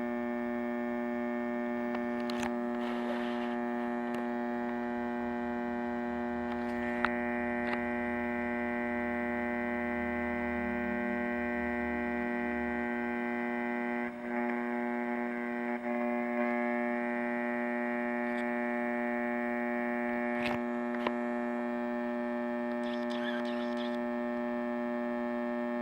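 Old Macdonald CE 100 scanner radio putting out a steady, buzzy mains hum. A few sharp clicks sound through it, and about halfway in the hum briefly wavers and dips.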